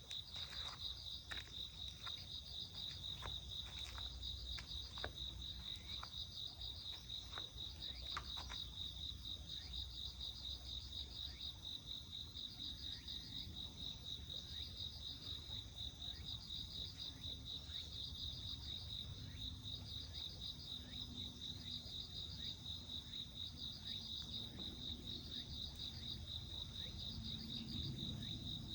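High, steady animal trill with short pulsed chirps repeating about once a second, the song the uploader credits to a bird. A few sharp clicks sound in the first several seconds over a low background rumble.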